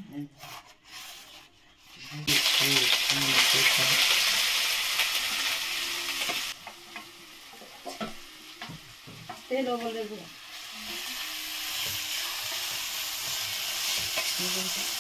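Food frying in hot oil in a pan, sizzling. The sizzle starts abruptly about two seconds in, eases off midway and builds again near the end.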